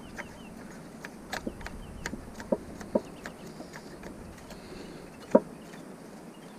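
Irregular short metallic clicks and knocks from scrap metal being worked loose by hand with tools, the loudest knock about five seconds in.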